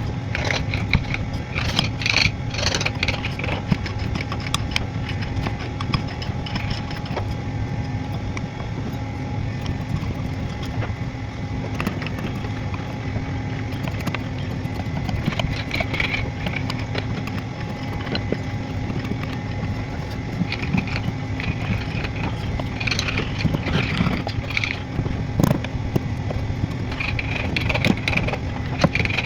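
A small motor running steadily, with irregular bursts of scraping as a tool works the wood.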